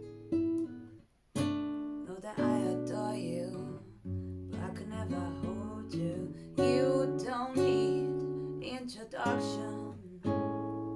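Acoustic guitar strumming chords as the accompaniment of a slow song, each chord ringing out and fading, with a short break about a second in.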